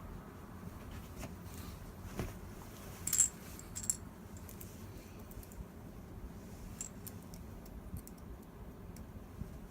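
Scattered light clicks and metallic clinks of small parts and a screwdriver being handled, with the loudest sharp clink about three seconds in and another just before four seconds.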